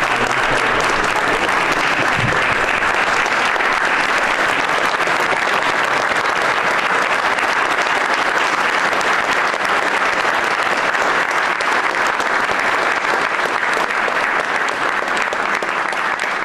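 Sustained applause from an audience in a room, steady throughout and beginning to die down at the very end.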